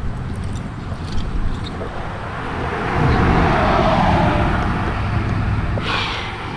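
A motor vehicle driving past: a low rumble with a broad noise that swells about three seconds in and fades again.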